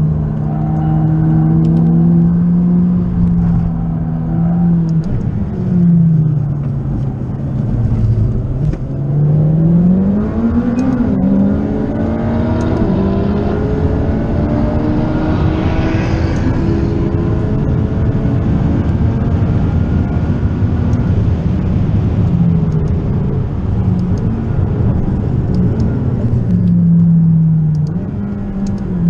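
McLaren 540C's twin-turbo V8, tuned to about 650 hp, heard from inside the cockpit on track: the engine note holds steady, dips, then climbs in a long pull about a third of the way in, falls away later under lower revs and picks up again near the end.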